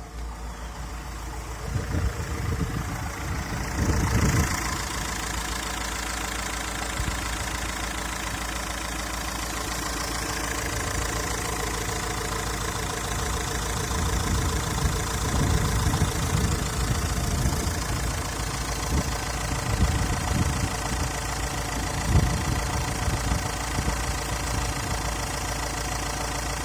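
Engine running steadily at idle on a test run, with a few brief louder surges, the strongest near the start and about three quarters of the way through.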